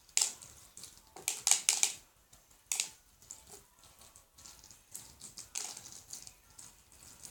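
Slime being worked, giving irregular sticky, wet crackles and squelches in short bursts, densest in the first two seconds.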